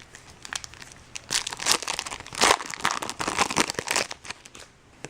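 Foil trading-card pack wrapper crinkling in bursts as it is handled, loudest in the middle and dying away near the end.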